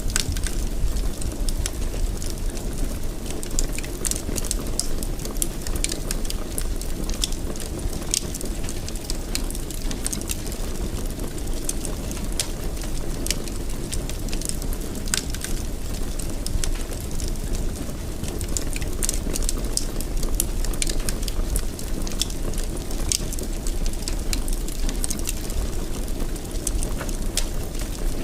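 Wood fire burning in a fireplace: a steady low rumble of flames with frequent small, sharp crackles and pops throughout.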